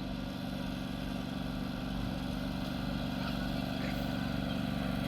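Tractor engine running steadily under way, growing slightly louder over the few seconds.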